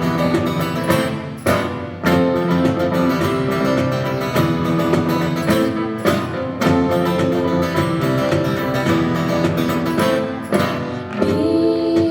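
Instrumental passage of a song: guitar strumming steady chords, with a sharp accent every few seconds.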